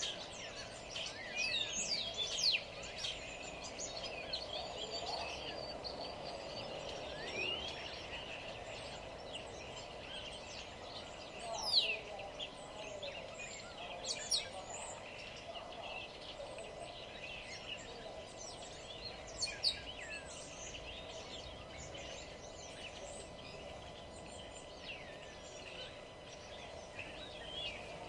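A chorus of small songbirds chirping and singing, many short overlapping calls, a few louder ones about twelve, fourteen and twenty seconds in, over a steady low background hum.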